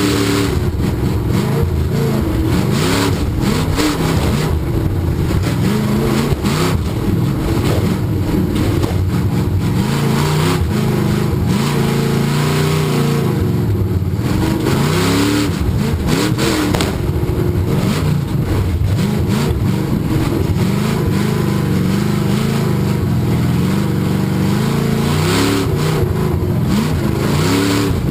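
Tough-truck racing truck's engine revving hard, its pitch rising and falling again and again as the driver accelerates and lets off.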